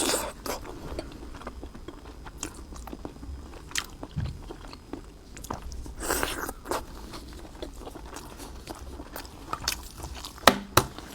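Close-up mouth sounds of a person biting and chewing a boiled half-hatched chicken egg (活珠子), with irregular soft crunches and wet clicks and a few sharper clicks near the end.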